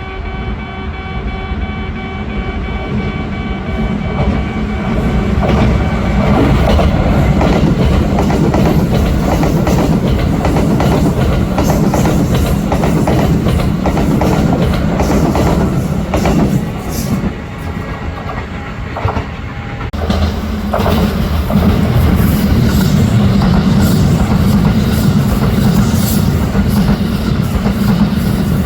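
Kintetsu electric trains passing through a station without stopping, running loudly with wheels clattering over the rail joints. The sound changes abruptly about twenty seconds in, where a second pass begins.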